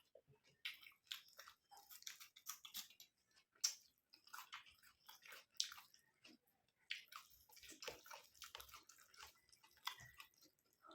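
Close-up mouth sounds of someone chewing curry and rice: wet smacking and squishing with irregular clicks.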